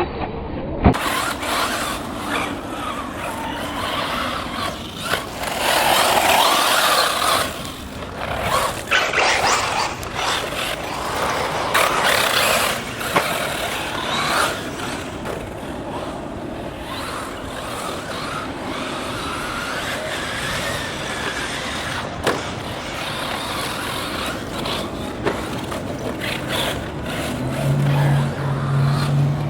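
Electric 1/8-scale RC buggy, a Kyosho Inferno MP9 converted to a Tekin Redline brushless motor, running on a dirt track. Its motor whine rises and falls as it accelerates and slows, over rough tyre-on-dirt noise, with a few sharp knocks.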